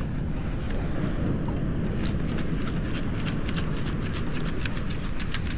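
Steady low rumble of wind on the microphone at the beach, with a fast run of light ticks from about two seconds in.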